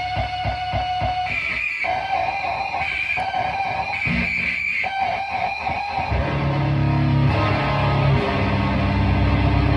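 Electric guitar played through a Dirge Slowly Melting noise pedal into a Barton High Voltage Custom 200 amp and an Ampeg cabinet. Fast pulsing, stuttering tones give way to shifting high held notes, and about six seconds in a thick low drone swells in and keeps building.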